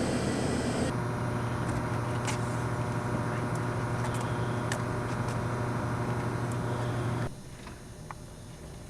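A steady low mechanical hum with a constant pitch, like an idling engine. It cuts off abruptly about seven seconds in.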